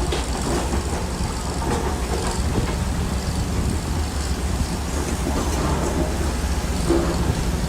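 Crawler bulldozer's diesel engine running steadily, with irregular clanks and rattles from the steel tracks.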